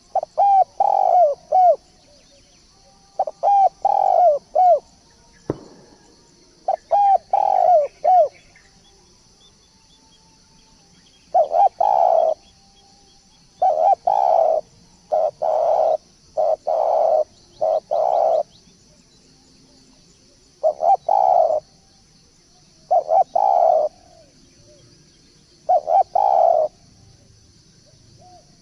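Turtledove cooing: quick clusters of short coo notes in the first several seconds, then longer, fuller coos in twos and threes, with pauses of a second or two between phrases. A single sharp knock about five and a half seconds in.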